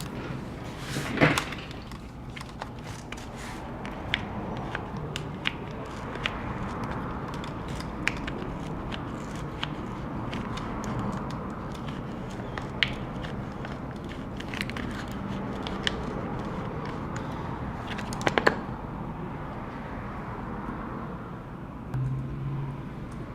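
Plastic pry card being slid and worked under a glued-in laptop battery: faint scraping with scattered small clicks over a steady hiss. There are two louder sharp taps, about a second in and near 18 seconds.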